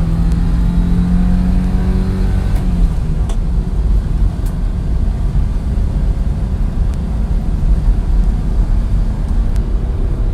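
1987 Daihatsu mini truck heard from inside the cab, its engine pulling under load in fourth gear up a hill, with road rumble. The engine tone climbs slightly for about the first three seconds, then sinks into the steady low rumble.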